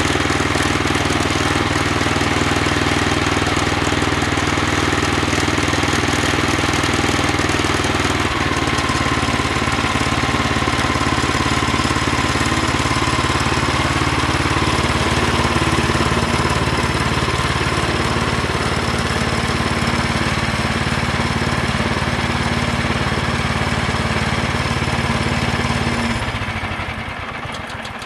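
Sawmill engine running steadily while sawing a 6x6 timber, its note shifting about eight seconds in, then dying away near the end as the cut finishes.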